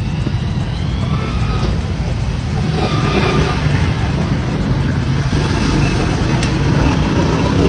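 A motor vehicle's engine running steadily close by, a continuous low rumble with street traffic noise around it.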